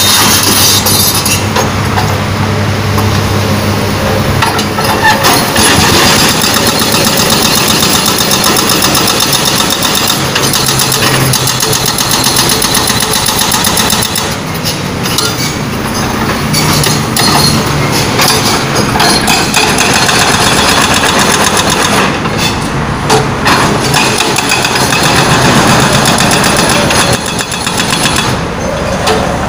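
Excavator-mounted hydraulic breaker hammering rapidly into asphalt over the excavator's running diesel engine, easing off briefly about halfway and again near the end.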